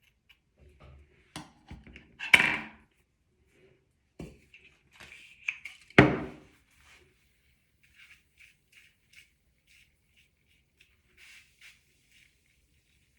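Small objects being handled on a hard surface: a few sharp knocks, the loudest about two and six seconds in, then a run of soft, light ticks and scratches.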